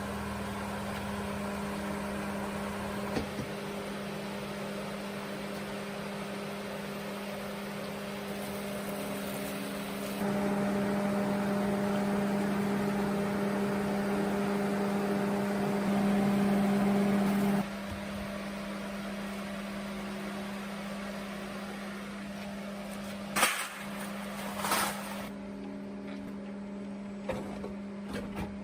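A motor running at a steady speed with an even hum, having spun up just before. It gets louder for several seconds in the middle, and there are two short knocks near the end.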